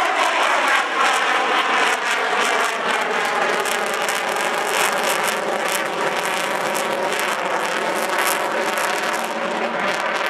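Avro Vulcan XH558's four Rolls-Royce Olympus jet engines running loud as the delta bomber flies past, a crackling jet noise with tones that slowly fall in pitch as it goes by.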